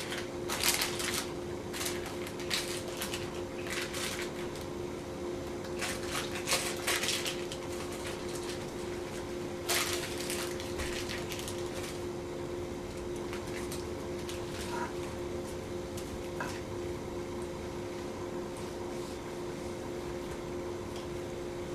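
A spatula scraping and spreading thick fudge in a wax-paper-lined dish: several soft scrapes in the first few seconds and another around the middle, over a steady electrical hum.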